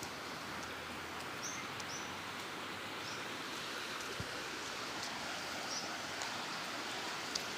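Steady rain falling, an even hiss, with a few brief high chirps scattered through it.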